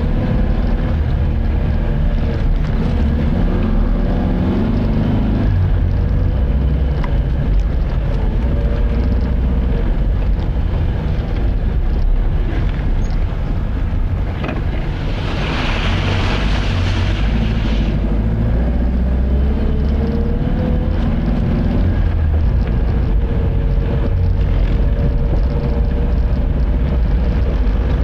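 Car on the move: steady engine and road rumble, its engine tone drifting up and down with speed. A burst of hiss passes about halfway through.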